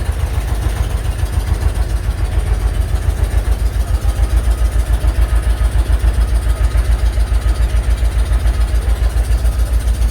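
Heavy engine idling: a steady low rumble that pulses about five times a second.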